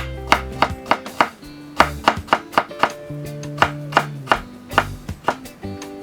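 Kitchen knife chopping on a cutting board: about fifteen sharp strikes at an uneven pace, over background music.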